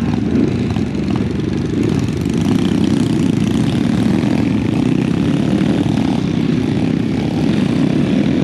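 Small motorcycle engine running steadily while the bike is ridden on a dirt trail.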